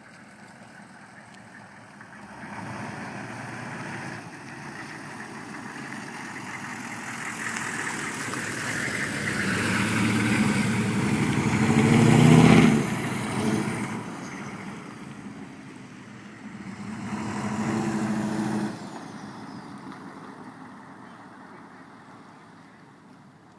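GM 6.5-litre turbo diesel V8 running through a 4-inch turbo-back exhaust with a straight-through stainless muffler. Its exhaust note builds steadily to its loudest about twelve seconds in, drops off sharply, swells again briefly a few seconds later, then fades away.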